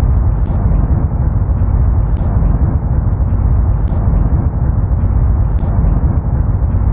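Audio recorded on the surface of Mars by a NASA Perseverance rover microphone: a steady, loud low rumbling noise with faint short ticks about every second and a half to two seconds. The high sounds are largely missing, as expected in the thin carbon-dioxide Martian atmosphere.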